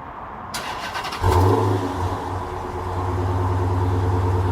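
Chrysler 300's Hemi V8 with a muffler delete started up: the starter cranks for well under a second, the engine catches with a loud rev flare, then settles into a steady idle.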